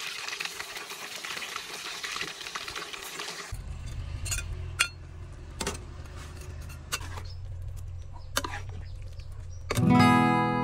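Fish deep-frying in oil in a metal wok, a steady sizzle. About three and a half seconds in this gives way to a low hum and a metal spatula stirring a stew in the wok, with several sharp clinks against the pan. Acoustic guitar music starts near the end.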